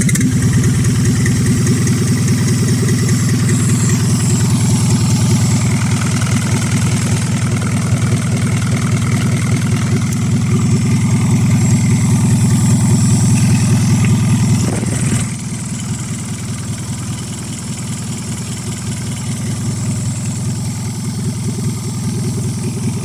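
Isuzu 4HF1 4.3-litre four-cylinder diesel engine running just after a start-up, loud and steady, then dropping to a quieter steady idle about fifteen seconds in.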